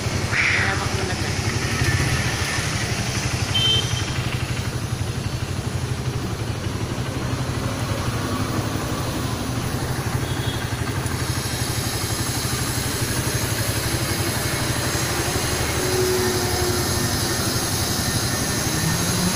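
Small motorcycle engine running steadily at low speed, with a low even hum. A high steady whine joins about halfway through.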